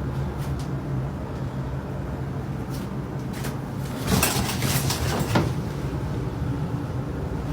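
A steady low hum, with a short run of rustling and light knocks about four to five seconds in.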